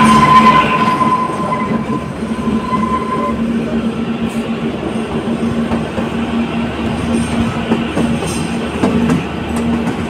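A narrow-gauge toy train running along the track, heard from a carriage window: a steady rumble of wheels and carriage with a steady low hum. A thin high wheel squeal sounds over the first three seconds or so, and the noise is loudest in the first second.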